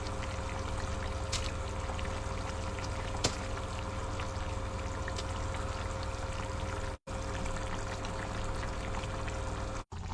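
A pot of chicken stew simmering on a stove, a steady watery bubbling hiss over a faint steady hum; the sound breaks off for an instant twice.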